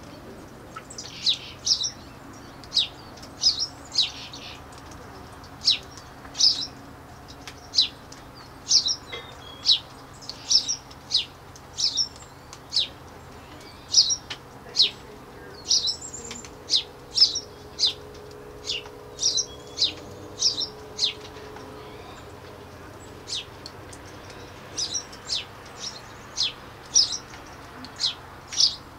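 Small birds chirping: short, sharp, high calls repeated about once or twice a second, over a faint steady low hum.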